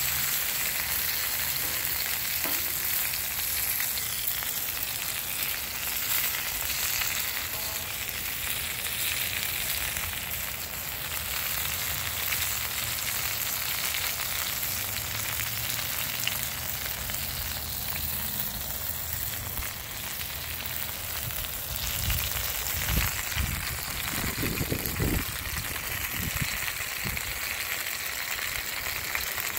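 Chicken drumsticks sizzling in oil in a black pan over an open fire: a steady frying hiss. Several low thumps come in the last few seconds.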